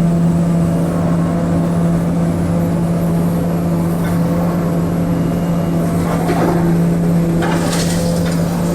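Demolition excavator's diesel engine running steadily under load as it works on the concrete structure, with short noisy bursts about six and eight seconds in.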